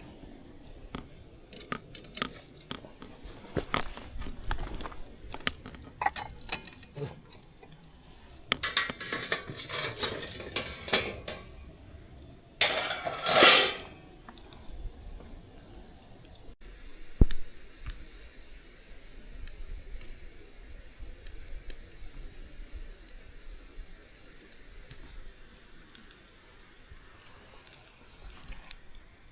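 Cookware and utensils clinking and clattering as they are handled, in scattered knocks with a denser run of rattling about a third of the way in. Midway a louder rushing noise swells and fades over about a second and a half, followed shortly by a single sharp knock.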